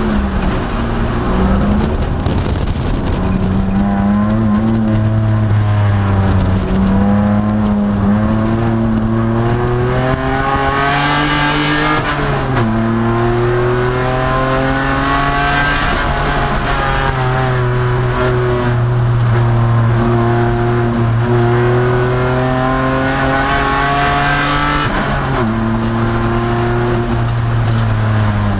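2002 Nissan Maxima race car's 3.5-litre V6 running hard on track, its pitch climbing and easing back. The pitch drops suddenly about twelve seconds in and again about twenty-five seconds in.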